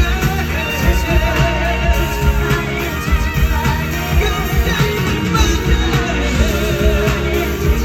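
Live pop-rock band playing loudly, with heavy bass and drums and a wavering sung voice over it.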